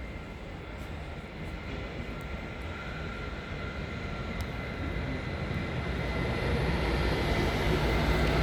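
Freight train hauled by a Siemens Vectron electric locomotive approaching. It grows steadily louder, a low rumble with a steady high whine over it.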